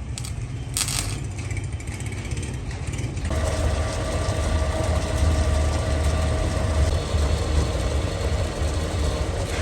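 Workshop machinery running with a steady low hum; just under a second in there is a sharp click, and about three seconds in a machine starts up and adds a steady whine that holds.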